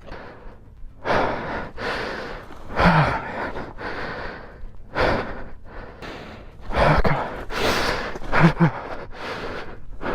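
A man breathing hard in ragged gasps and sighs, with a few short groans, distressed after crashing his motorcycle.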